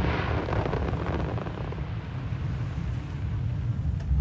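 Aerial firework crackle dying away over the first second or so, leaving a steady low rumble of wind on the microphone.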